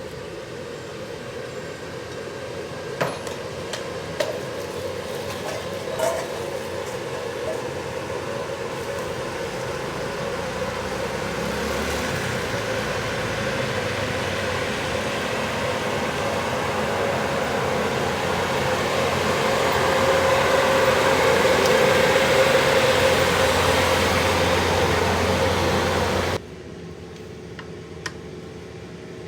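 A motor-driven machine running steadily with a hum, growing gradually louder, then cutting off abruptly near the end, with a few light clicks early on.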